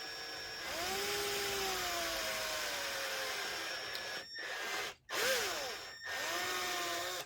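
Power drill boring a 3/8-inch bit into the plastic end of a fishing rod handle, run slowly in bursts. The motor's pitch sags under load, it stops briefly about four and five seconds in and starts up again twice.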